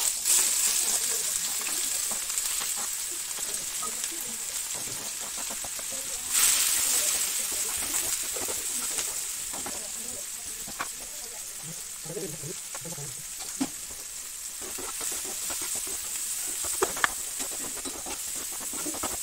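Chopped vegetables sizzling and hissing in hot oil in a non-stick frying pan, the sizzle starting sharply as they are tipped in, with a second surge about six seconds in. Scattered clicks and scrapes of a spatula against the pan as they are stirred, the sharpest near the end.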